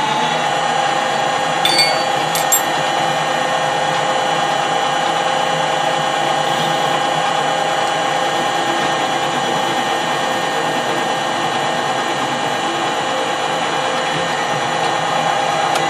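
Metal lathe running steadily with a constant gear whine while the end of a small bar is faced square. Two short sharp clicks come about two seconds in.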